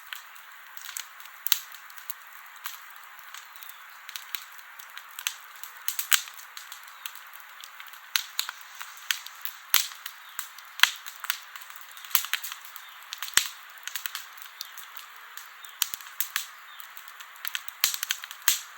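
Wood campfire crackling: irregular sharp pops and snaps, sometimes several close together, over a steady soft hiss of the burning fire.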